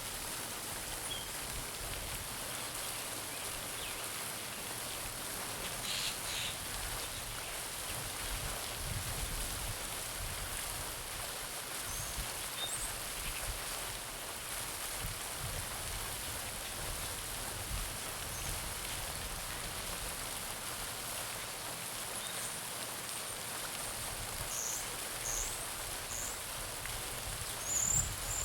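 Garden fountain splashing steadily into a pond, with birds chirping briefly now and then, several chirps near the end.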